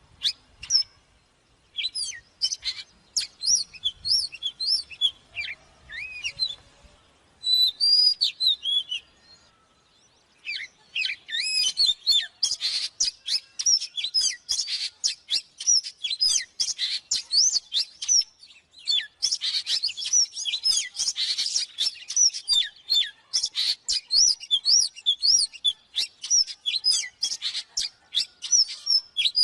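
Oriental magpie-robin singing: quick runs of varied whistles and chirps, broken by a couple of short pauses in the first ten seconds, then a dense unbroken stretch of song from about eleven seconds in.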